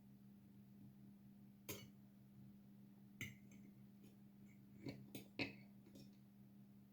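A few short, light clicks and clinks of kitchenware, one near the start, one in the middle, and a quick cluster of three near the end, over a faint steady hum.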